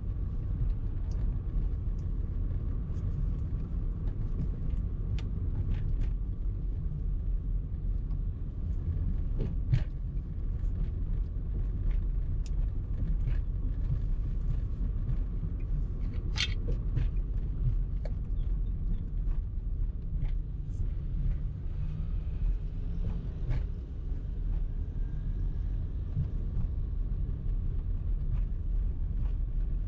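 Car driving in traffic: a steady low rumble of engine and road noise, with scattered faint clicks and ticks.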